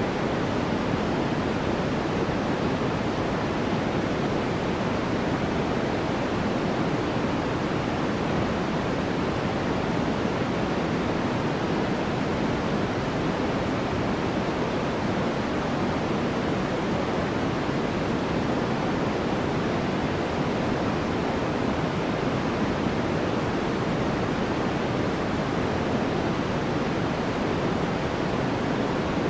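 Steady sleep noise: an even, unchanging hiss weighted towards the lower range, with no breaks or events.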